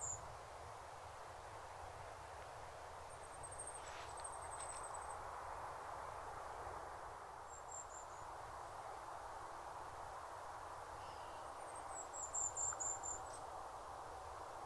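Outdoor ambience: short, high-pitched chirping trills come four times, a few seconds apart, over a steady soft hiss.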